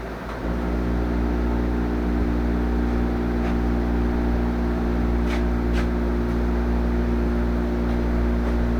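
Air compressor starting up about half a second in, then running steadily.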